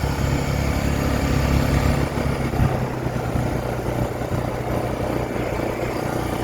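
A vehicle's engine running steadily, a low hum with some road or wind noise over it; the hum eases a little about two and a half seconds in.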